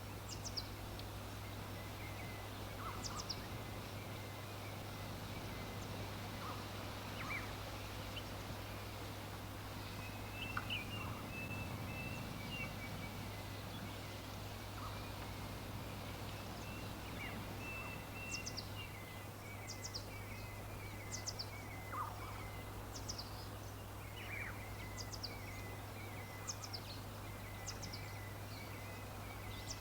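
Wild birds chirping: short, high, downward-sliding chirps every second or two, with runs of quick lower notes in places, over a steady low hum.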